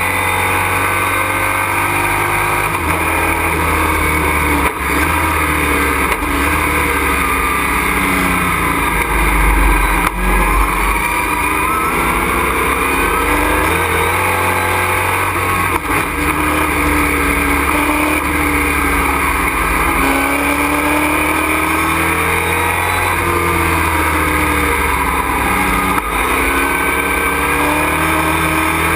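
Race truck's engine heard from inside the cockpit, running hard at race pace, its pitch rising and falling again and again as it accelerates and lifts, over a constant rushing noise.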